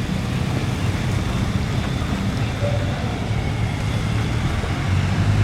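Engine of a moving vehicle running steadily, a low hum under an even rush of noise.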